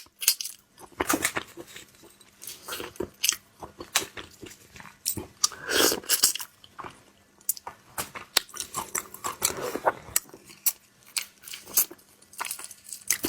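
Close-miked eating of shrimp: repeated crisp crunches and clicks of shell being bitten, mixed with wet chewing of the meat.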